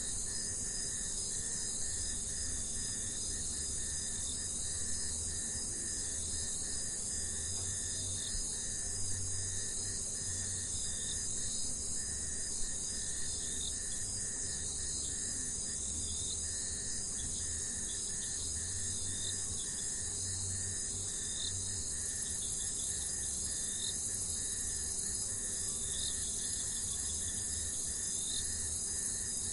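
Jungle ambience dominated by a dense, steady chorus of insects, high-pitched and unbroken. Lower down there is a pulsing insect trill, with scattered short chirps over a faint low rumble.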